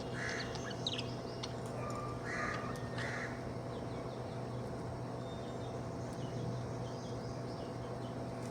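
Budgerigar calls: a few short raspy calls and quick chirps in the first three seconds, then fainter chattering chirps.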